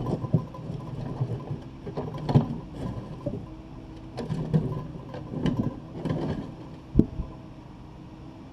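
Takeuchi TB260 excavator's diesel engine running steadily under irregular clanks and scrapes of the bucket working broken concrete and rubble, with one sharp knock about seven seconds in.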